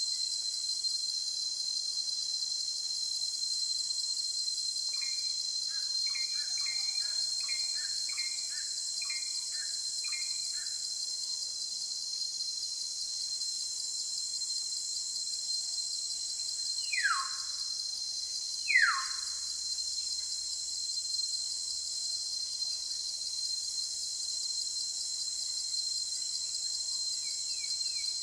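A steady high-pitched insect drone with bird calls over it: a quick run of short chirps, then two loud falling whistles a couple of seconds apart.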